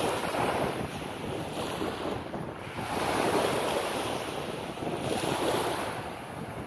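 Small waves washing onto a sandy beach, swelling and falling back every couple of seconds, with wind buffeting the microphone.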